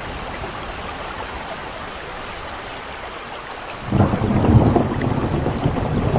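Steady rain, then about four seconds in thunder starts rumbling loudly and keeps going.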